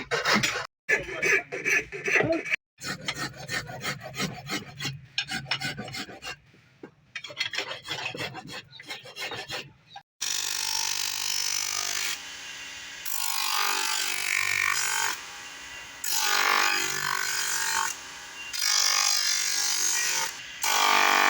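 Hand filing on metal: quick rasping strokes in a rapid run. About halfway through it changes abruptly to a steadier, hissing scraping sound that comes in long stretches broken by short pauses.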